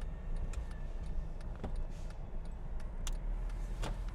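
Car driving, heard from inside the cabin: a steady low road rumble with a few light, irregular clicks or rattles.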